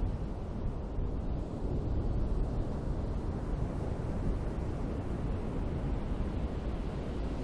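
Ocean surf: a steady, even rush of breaking waves with a deep rumble underneath and no single wave standing out, with some wind rumbling on the microphone.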